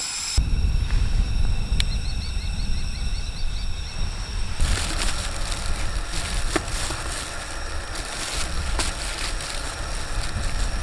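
Wind rumbling on the microphone outdoors, with a short run of high chirps about two seconds in and a few scattered clicks.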